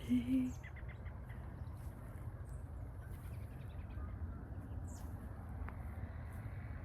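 Birds calling at dusk: a run of short, high chip notes about a second in and scattered thin high notes later, over a steady low rumble. Right at the start comes a short, low two-part hoot, the loudest sound of the moment.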